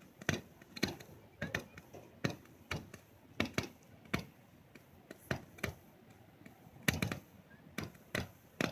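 Firework barrage cake firing shot after shot, a sharp pop about twice a second with a brief tail after each.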